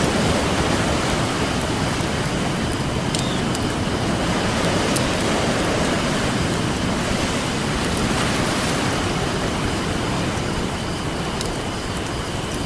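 Ocean surf washing on a beach in a steady hiss that swells and eases, with a few sharp pops from a crackling campfire.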